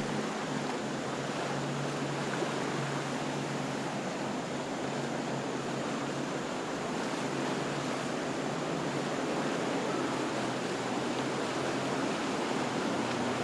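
Steady rushing noise of churned water and wind, with a low boat-engine drone underneath that is clearest in the first few seconds.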